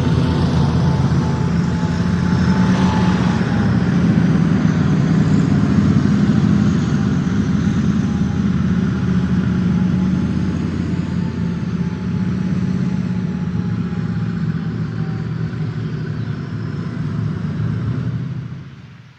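A steady low rumble with a noisy hiss over it, fading out near the end.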